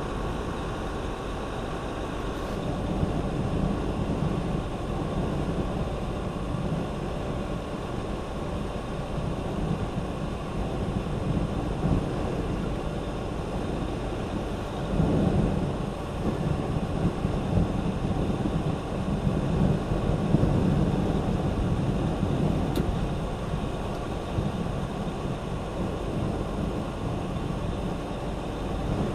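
Steady low rumble of a truck on the move, heard inside the cab, swelling and easing a little about halfway through.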